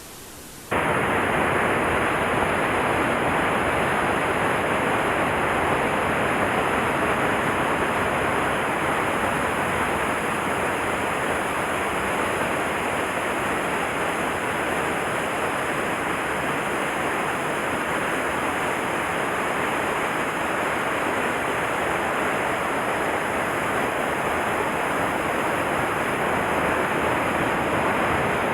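Rushing water of a mountain headwater stream, a loud steady rush that comes in abruptly just under a second in.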